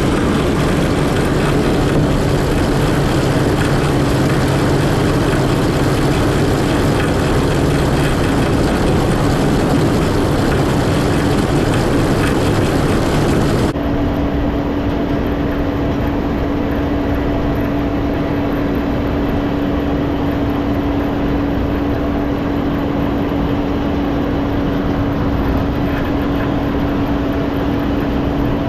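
Tractor engine running steadily with a constant drone. About halfway through the sound abruptly turns duller and the hiss drops away, while the drone carries on.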